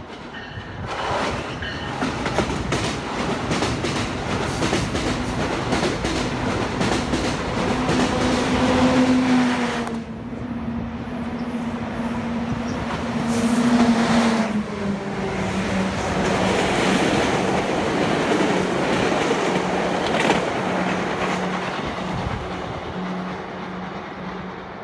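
Exo commuter train rolling past: steady rumble and rattle of its wheels on the rails, with a steady low drone underneath.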